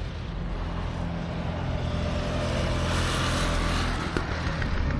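Go-kart engine running steadily, with a louder rush of noise about three seconds in as a kart goes by.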